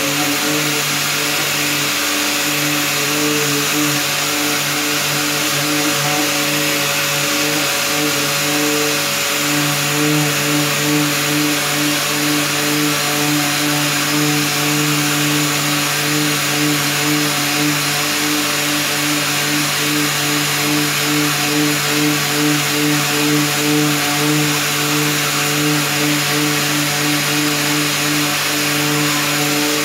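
Orbital sander with 150-grit paper running steadily against the side skirts, sanding down scratches; a constant hum with hiss over it and a slight waver in loudness as it is worked over the panel.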